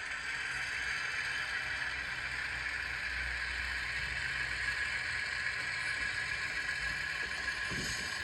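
HO-scale model diesel locomotive running along the track, a steady hum with light rattle, its new decoder working.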